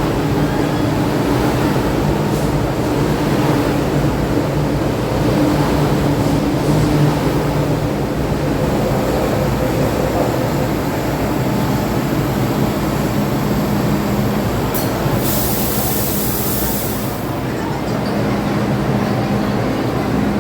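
MTR Q-train electric metro train hum and rumble, steady throughout, with a short hiss of air about fifteen seconds in.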